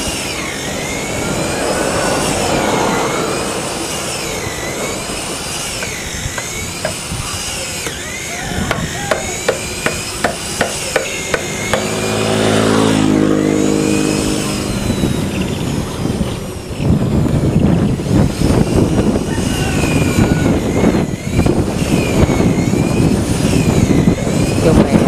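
Boatyard repair noise: a quick run of sharp knocks like hammer blows, then a motor whose pitch falls, then dense rattling clatter near the end.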